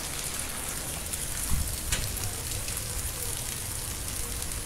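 Steady rain falling, an even hiss of drops, with a brief low thump about a second and a half in.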